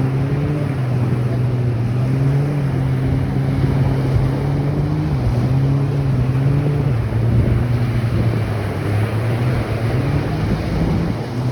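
An engine droning with a low hum whose pitch wavers up and down a little, over a steady rush of surf and wind noise on the microphone.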